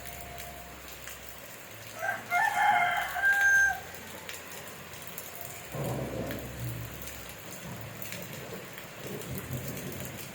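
Steady rain falling, with a rooster crowing once about two seconds in, the loudest sound. A low rumble swells briefly about six seconds in.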